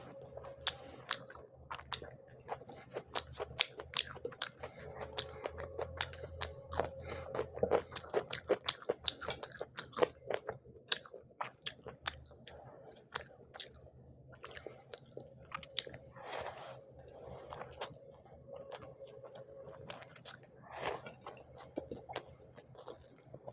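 Close-miked crunchy chewing and biting of crisp fried hilsa fish with rice: many sharp crackles in quick succession, louder and denser in the first half, thinning out later.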